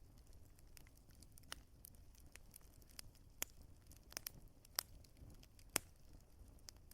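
Wood fire crackling: irregular sharp pops and snaps, a few louder ones in the second half, over a faint low rumble of the burning.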